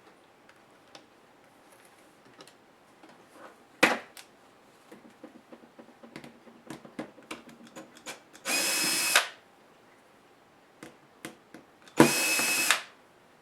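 Small power driver whirring in two short bursts, about three and a half seconds apart, backing out the laptop's tiny screws. Between the bursts come light clicks and a sharp knock of plastic and metal parts being handled.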